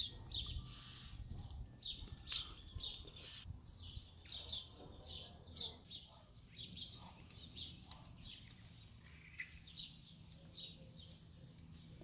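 Faint bird chirps and tweets, short and scattered, a few each second.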